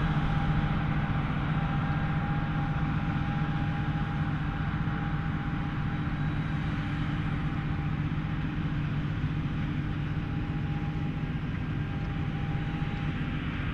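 Heavy farm machinery's diesel engine running steadily under load, a constant low drone with a thin steady whine above it.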